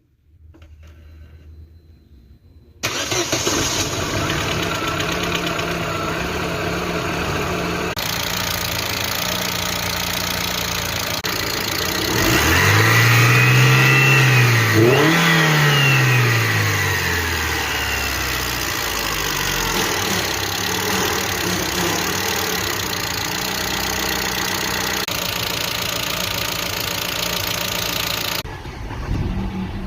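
Daewoo Nexia four-cylinder petrol engine starting about three seconds in and idling steadily, revved twice in quick succession near the middle, for an oil pump pressure check with the oil pressure sender removed.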